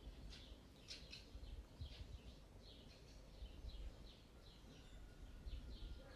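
Faint high chirping, two or three short chirps a second, as of small birds calling, over soft low bumps and rumble.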